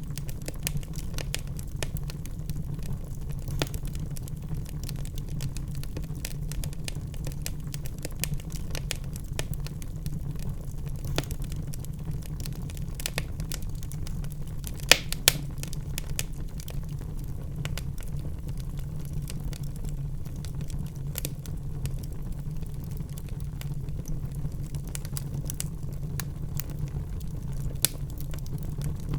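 Wood fire crackling in a fireplace, with irregular snaps over a steady low rumble of the flames. Two sharp pops stand out about halfway through, and another near the end.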